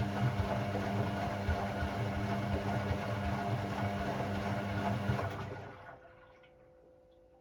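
Hoover Sportswear 1300 washing machine running with a steady hum and a rush of water noise, which shuts off about five seconds in and fades out over the next second.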